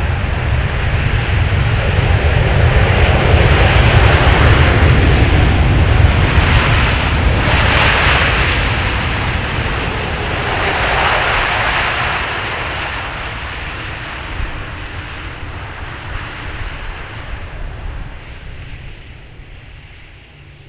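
Jet airliner flying low overhead on short final, its engine noise building to a peak a few seconds in and then fading away as it passes.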